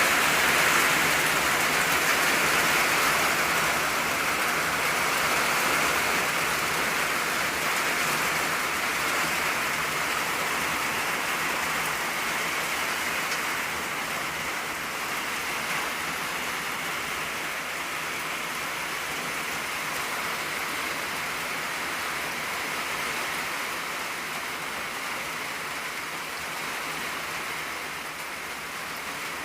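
Steady rain falling on an old tin roof, a dense even patter that eases gradually over the stretch.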